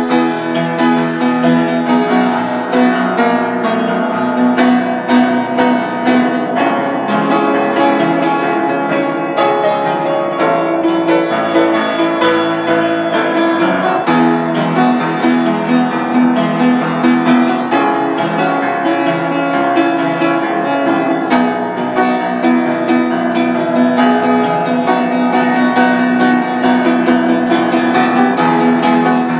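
Solo keyboard playing a praise and worship song, with a steady stream of quick notes over sustained low chords.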